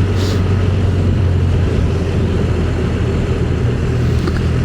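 Motorcycle riding at a steady cruising speed: a constant low engine drone under a steady rush of wind noise.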